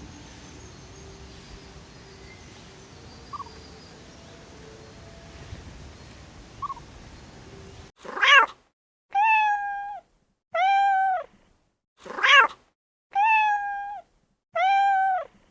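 A cat meowing six times, each meow under a second, after a stretch of faint background. The meows come in two identical sets of three: a short meow that rises and falls, then two longer, level, high-pitched meows.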